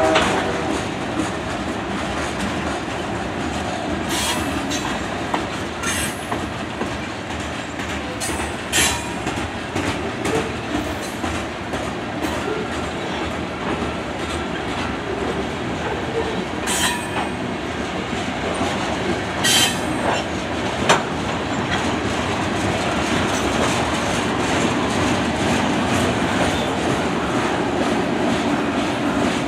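Covered hopper cars of a Canadian Pacific freight train rolling past over a short bridge: a steady rumble of steel wheels on rail, broken by occasional sharp clanks.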